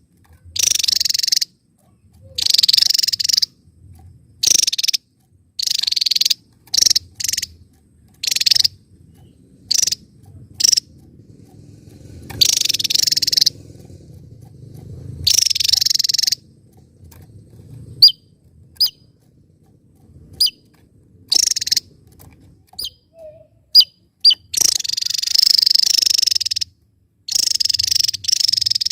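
Javan tesia singing its rapid-fire 'tembakan' song: a run of loud, buzzy, high-pitched bursts, each about half a second to a second and a half long, with short gaps between them. A few single thin, sharp chirps stand alone partway through.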